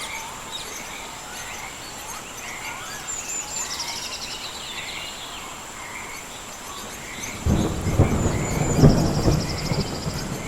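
Songbirds chirping and trilling over a steady hiss of rain, with a steady high tone behind them. About seven seconds in, a loud roll of thunder rumbles for a couple of seconds.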